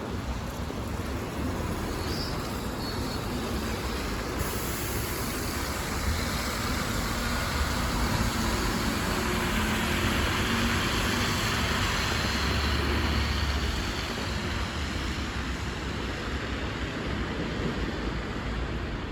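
City bus engine and tyre noise as a bus drives past amid traffic, growing louder through the middle and then easing off.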